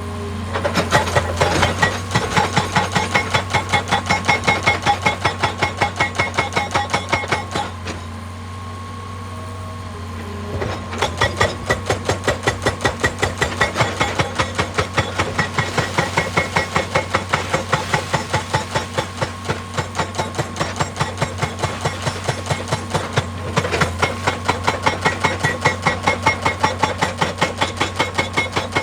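Excavator-mounted hydraulic rock breaker hammering rock in rapid, even strokes, about five a second, over the steady running of the excavator's engine. The hammering stops for about three seconds some eight seconds in, then stops again briefly about three-quarters of the way through.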